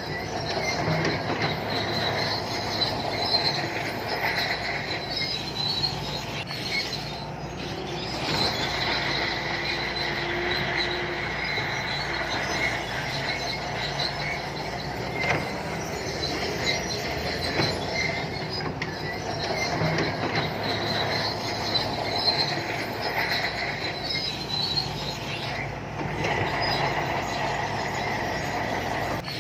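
Santui crawler bulldozer working: diesel engine running with its steel tracks squealing and clanking, the squeal swelling and fading every few seconds.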